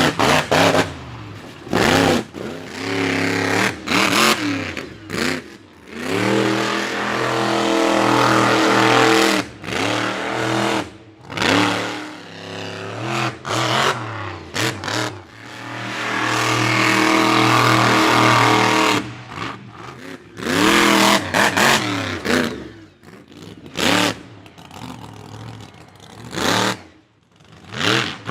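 Monster truck engine revving in repeated short throttle bursts, with two longer held revs partway through and again later.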